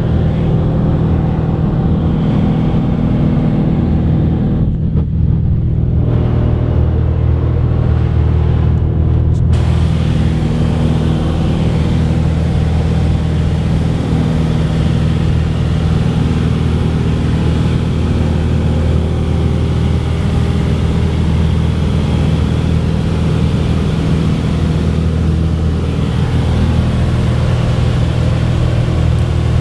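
Cessna 182's piston engine and propeller running with a steady drone. The pitch holds nearly constant, with a slight shift about 26 seconds in.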